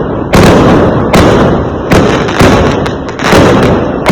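Fireworks going off: a quick run of loud bangs, about six in four seconds, each followed by a rumbling tail.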